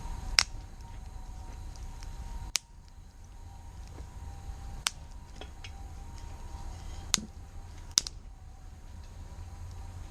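Wood campfire burning, with a few sharp, irregular pops and cracks from the burning wood over a low steady background rumble.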